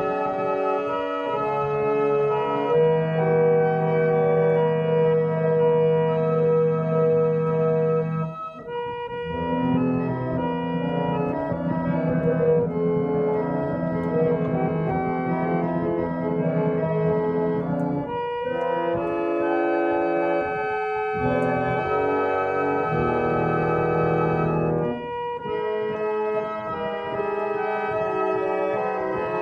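Reed organ playing slow, sustained chords that change every few seconds, with short breaks between phrases.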